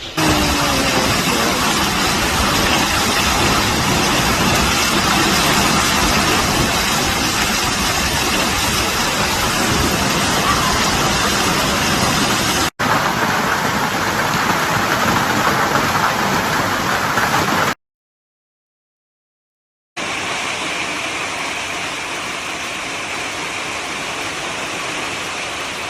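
Heavy hail and torrential rain pelting down, a loud, dense, steady roar. It cuts off abruptly about 13 seconds in and again near 18 seconds, then after two seconds of silence comes back somewhat quieter.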